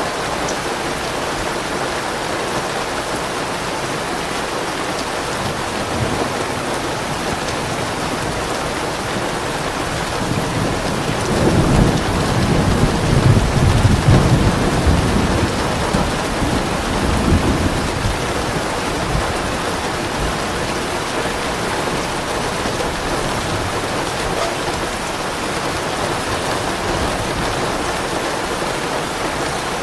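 Steady heavy rain with a soft roll of thunder that swells about a third of the way in, peaks, and fades away over several seconds.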